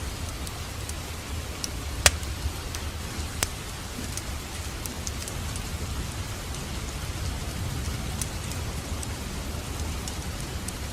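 Wood fire in a fireplace crackling over a steady low rumble of flames, with scattered sharp pops; the two loudest come about two seconds in and again just over a second later.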